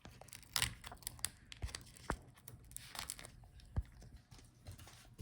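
Crackling and small irregular clicks of the laptop's display video cable being worked loose from its connector on the back of the LCD panel.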